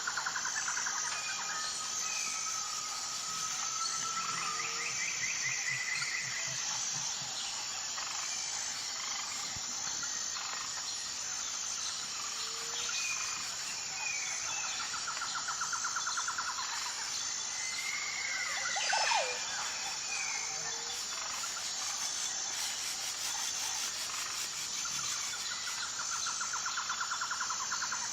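Outdoor nature soundscape: a steady, evenly pulsing high insect chirping throughout, with buzzy pulsed trills recurring every several seconds and scattered short bird calls, one a sharp downward-sliding call about two-thirds of the way through.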